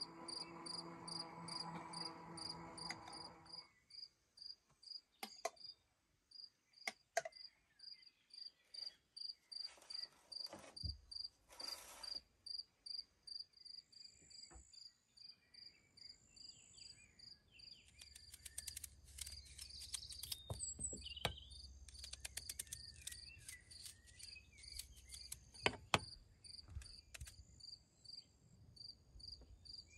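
A cricket chirping steadily at about two chirps a second, with scattered clicks and knocks and a low pitched hum in the first few seconds.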